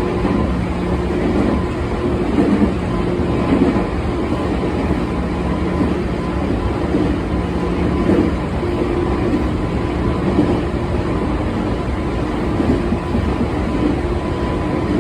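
Running noise heard inside a JR Chuo Line electric train: a steady rumble of the wheels on the rails with a low motor hum, and louder bumps now and then.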